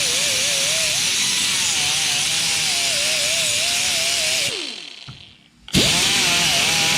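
Handheld power grinder deburring the edge of a steel patch panel: a harsh grinding hiss over a motor whine that wavers in pitch as it is pressed into the metal. About four and a half seconds in it winds down with a falling pitch, and it starts up again near the end.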